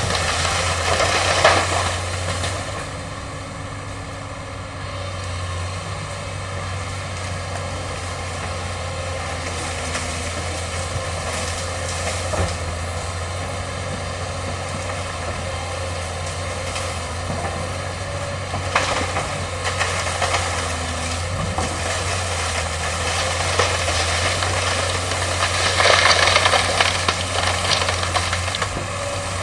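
Excavator's diesel engine running steadily, with short bursts of crackling noise as it works through bamboo, the loudest near the end.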